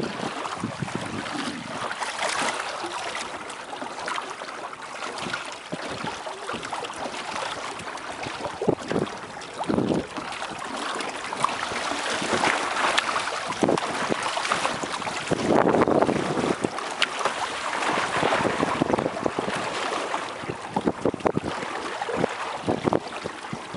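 Water rushing and splashing against the hull of a sailing outrigger kayak, with wind buffeting the microphone and irregular slaps of water now and then.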